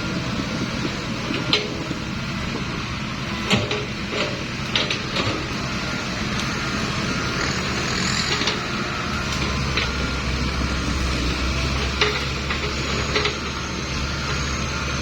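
Heavy dump truck engine running under load as it strains to climb out of where it is stuck, with scattered sharp metallic clanks and knocks. The engine note deepens and strengthens about two-thirds of the way through.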